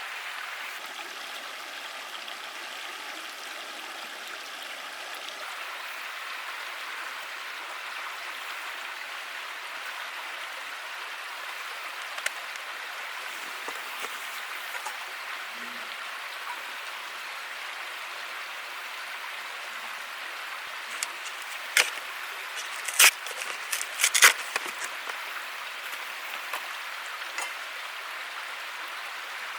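Steady rushing of running water, with a few sharp clinks near the end.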